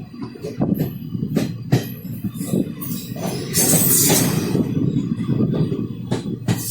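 Passenger train coach running along the track: a steady low rumble with sharp clacks of the wheels over rail joints, and a brief rising hiss of higher noise near the middle.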